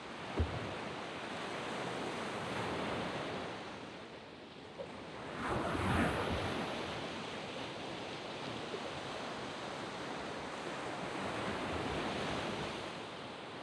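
Sea waves washing onto a sand beach: a continuous hiss of surf that swells and ebbs, with one wave breaking more loudly about six seconds in. A brief low thump comes about half a second in, likely wind on the microphone.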